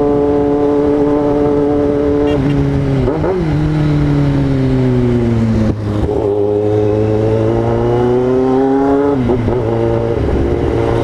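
Yamaha XJ6's 600 cc inline-four engine running on the move. Its pitch holds steady, then falls as the bike slows, breaks briefly about six seconds in, and climbs again.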